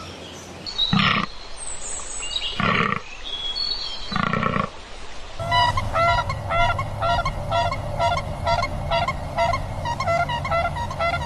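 Three loud animal calls, each about half a second long and a second and a half apart. About halfway through they give way to a fast, evenly repeating run of short notes over a steady low hum.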